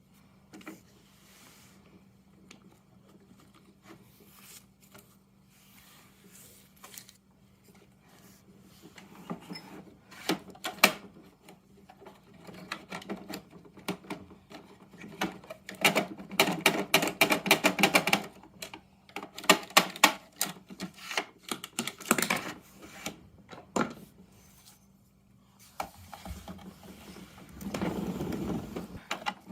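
Plastic clicking, rattling and scraping from a Bruder Mack toy garbage truck being worked by hand. The sparse clicks at first become a dense run of rattles in the second half.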